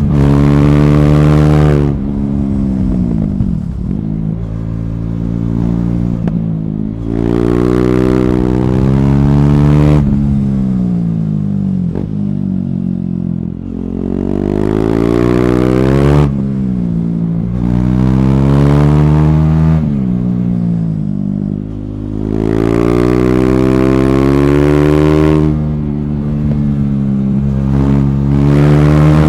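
KTM Duke 390's single-cylinder engine, breathing through an Akrapovic slip-on with the catalytic converter removed, being ridden hard. It makes repeated loud full-throttle pulls that rise in pitch, and between them the throttle is closed and the revs fall away.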